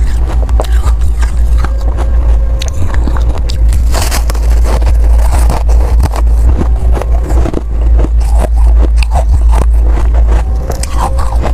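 Ice being bitten and crunched close to the microphone: many sharp, irregular cracks and crunches over a steady low rumble.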